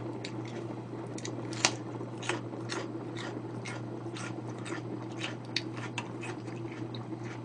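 Close-up crunching as a person bites and chews slices of a raw, crisp root vegetable, about two to three crisp crunches a second, over a steady low hum.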